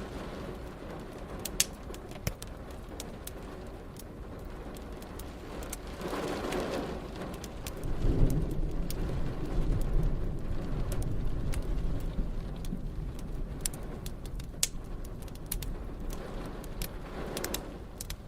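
Wood fire crackling with sharp pops over steady rain. About six seconds in a roll of thunder rumbles up, is loudest around eight seconds and fades out by about twelve seconds.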